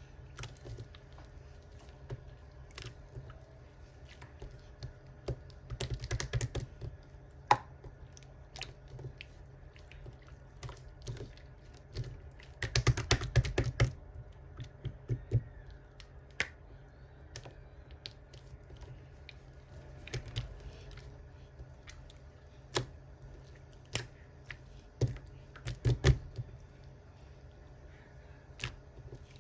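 Irregular light clicks and taps, like typing, over a low steady hum. Dense runs of clicking come about six seconds in and again around the middle.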